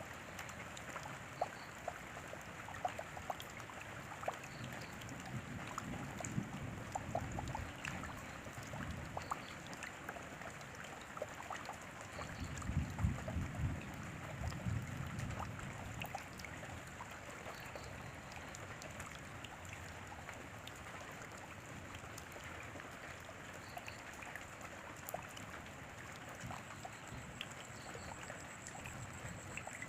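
Steady rain falling: a continuous hiss with many separate drops ticking through it. A low rumble swells in about five seconds in, and again, louder, around twelve to sixteen seconds in.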